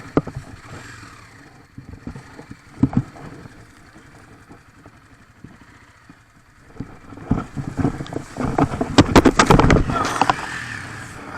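Honda CRF250 single-cylinder four-stroke dirt bike being ridden, with a few sharp knocks. It gets much louder and busier about seven seconds in.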